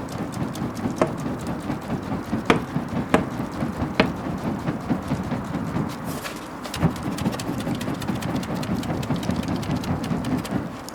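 Wood bonfire crackling, with a dense low rush of burning and sharp pops of wood every second or so, loudest around the first four seconds.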